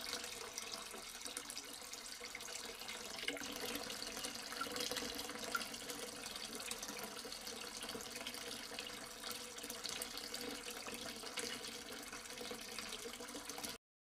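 Water trickling and splashing steadily down a small cement tabletop waterfall fountain, with scattered small drips. It cuts off suddenly near the end.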